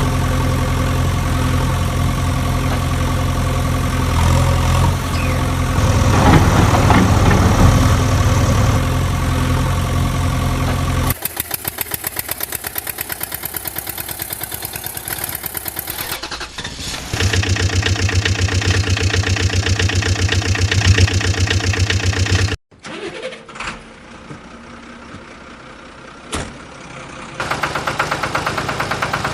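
Vehicle engine running across several cut-together clips: first a steady run, then idling with an even pulse. Around two-thirds through the engine drops away to a quieter stretch with a few clicks, and the pulsing idle returns near the end.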